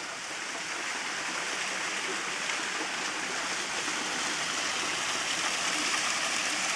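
Mountain waterfall pouring: a steady rush of falling water that grows slightly louder.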